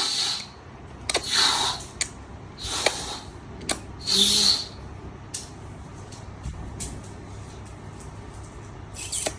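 A newborn baby making short, breathy, hissing sounds without pitch. Four come in the first five seconds, each under a second long, with small clicks between them. After that there are only faint clicks until one more just before the end.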